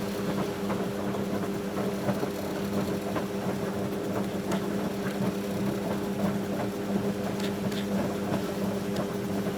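1974 Zoppas Superautomatic 242 washing machine's motor turning the drum during the wash, a steady hum with laundry and water clicking and sloshing inside. The hum stops right at the end.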